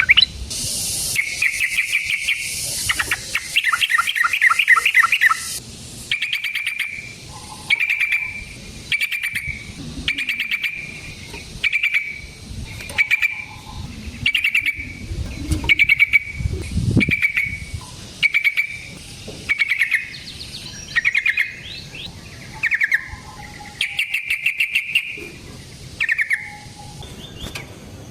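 Yellow-vented bulbul (trucukan) singing: a long, fast chattering run for the first few seconds, then short bubbly phrases repeated about once a second.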